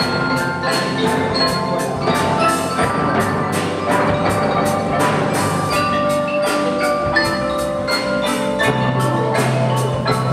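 Percussion ensemble playing a pop-song medley: mallet instruments ring out the melody in sustained notes over a steady beat of sharp strikes, about three to four a second.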